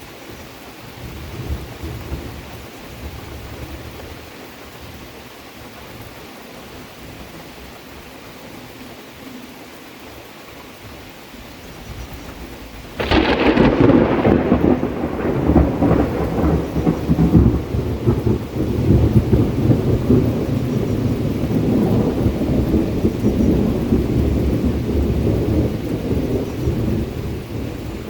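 Steady rain, then about halfway through a sudden clap of thunder that rolls on as a long, loud rumble, easing off near the end.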